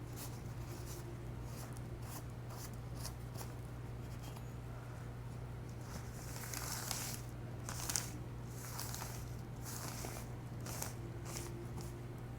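Scattered light rustling and small clicks of handling, heaviest in the middle, over a steady low electrical hum.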